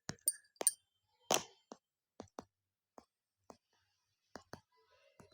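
Faint, irregular sharp clicks and taps, about a dozen over a few seconds, unevenly spaced, the strongest about a second in.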